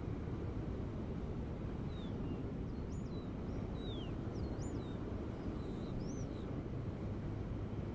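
Steady low rumble of ocean surf, with a bird calling a series of short whistled notes over it from about two seconds in to near the end.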